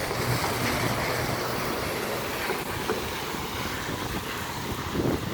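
Steady rushing noise with no clear pitch, with a few faint short sounds near the end.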